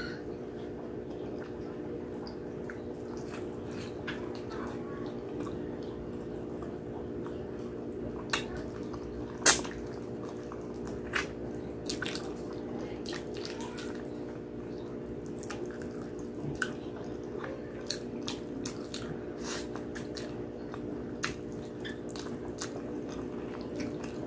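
Close-up wet chewing and lip smacking on sticky braised pork hock and rice, with sharp short mouth clicks scattered irregularly, the loudest about nine and a half seconds in. A steady low hum runs underneath.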